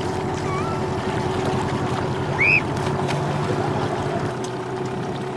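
Motorboat engine running steadily, a low hum under the noise of water and wind. A short high-pitched call cuts through about two and a half seconds in.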